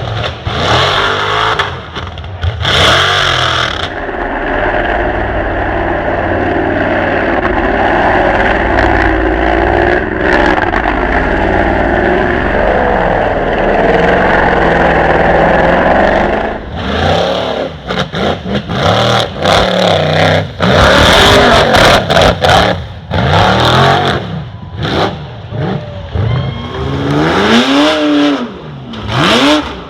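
Off-road truck engine revving under load, rising and falling, held at high revs for several seconds in the first half, then choppy with short bursts of noise and sharp revs in the second half.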